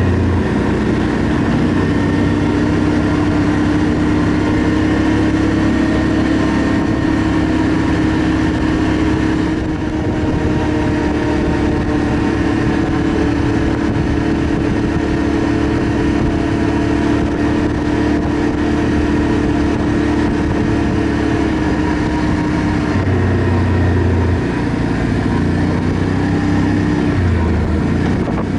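ATV engine running under way during a ride, its note steady for most of the time, then dropping and picking up again a few times near the end.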